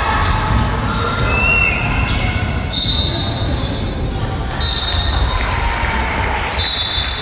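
A basketball being dribbled on a gym floor, heard in the echoing hall amid crowd chatter. Three short high-pitched tones sound about two seconds apart.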